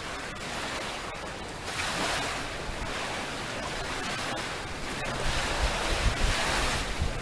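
Waves breaking and washing on the shore, surging about two seconds in and again near the end. Wind buffets the microphone in the later surge, adding a low rumble.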